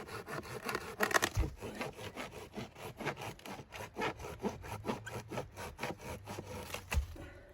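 A hand saw cutting wood in quick, even back-and-forth strokes, about four a second, stopping near the end. There are a couple of dull knocks along the way.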